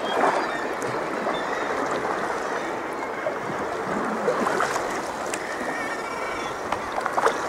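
Sea water lapping and sloshing against a sea kayak's hull, a steady wash of small splashes with a few sharper splashes near the end.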